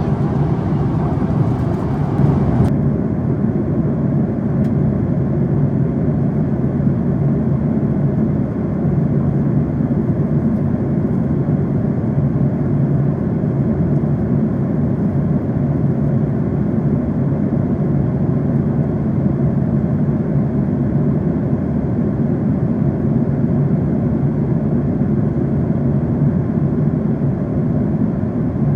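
Steady drone of a Boeing 767-400ER in climb, heard from inside the cabin: engine and airflow noise, mostly low. A brighter hiss on top drops away suddenly about three seconds in.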